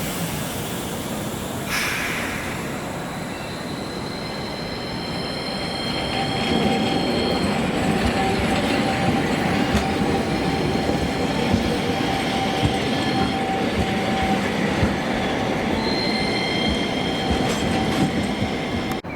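Toyama city streetcar running on its rails, wheels squealing in high steady tones over the rumble of the running gear. The rumble grows louder about six seconds in.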